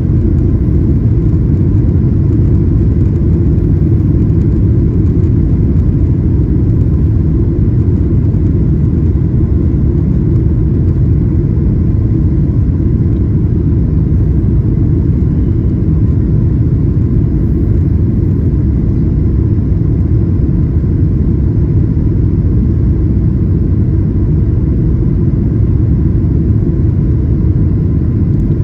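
Steady low rumble of a Boeing 737-900ER, heard from inside the economy cabin: engine and airframe noise that holds even throughout, with no surges.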